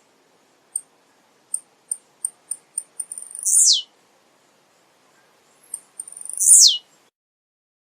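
Male blue-black grassquit (tiziu) singing: twice, a run of short high ticks quickens into a loud, sharp note that drops steeply in pitch, the two songs about three seconds apart.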